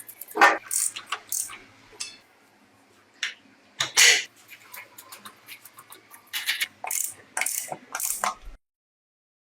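Short metallic clicks, clinks and rattles of tools and small metal parts being handled, with a louder clatter about halfway through. The sound cuts off abruptly to silence near the end.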